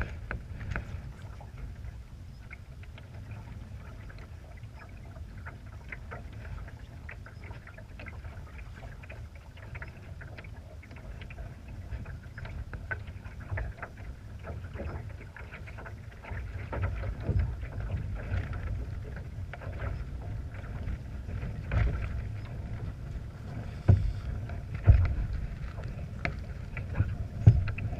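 Water splashing and slapping against a Laser sailing dinghy's hull under way, with wind rumbling on the action camera's microphone. Sharp knocks and splashes come louder in the second half, strongest near the end.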